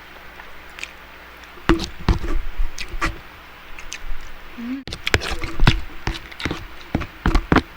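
Close-miked eating sounds: irregular wet clicks, smacks and knocks of chewing and handling food. They grow denser after a brief dropout about five seconds in.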